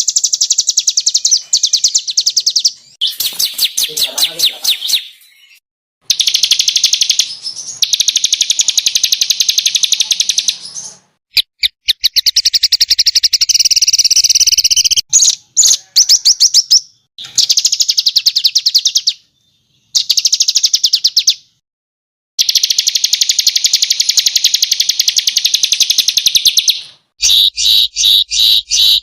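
Small songbirds' rapid, harsh trilling and chirping in dense runs of fast repeated notes, high-pitched and loud, starting and stopping abruptly with several short silent gaps between runs. It is a spliced song-tutoring (masteran) recording of the 'tembakan kasar' type, rough machine-gun-like bursts used to train caged songbirds.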